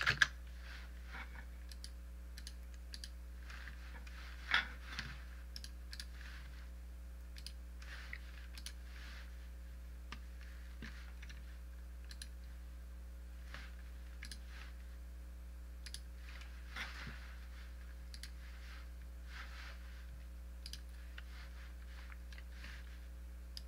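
Scattered clicks of a computer mouse and keyboard, a few seconds apart, over a steady low electrical hum; the loudest click comes about four and a half seconds in.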